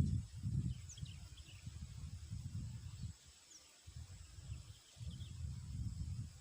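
Outdoor field ambience: an uneven low rumble of wind on the microphone that rises and drops away, with a few faint, short, falling bird chirps and a thin steady insect hum.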